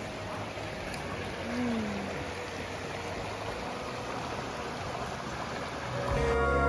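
Steady rushing noise, like running water, with one short falling cry about a second and a half in. Gentle guitar music comes in near the end.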